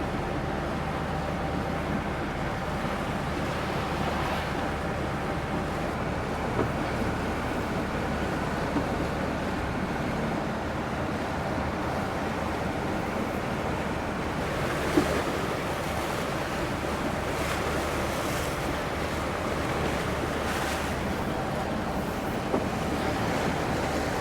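Water rushing and slapping against a sailing yacht's hull in choppy overfalls, with wind on the microphone and the yacht's inboard engine running steadily at high revs against a strong tide underneath. A few brief knocks, the clearest about halfway through.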